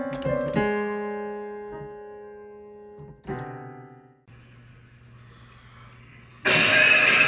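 Piano music: a few quick notes, then a held chord that slowly dies away, with a second chord about three seconds in that also fades. After a stretch of faint hum, a sudden loud rush of noise starts near the end.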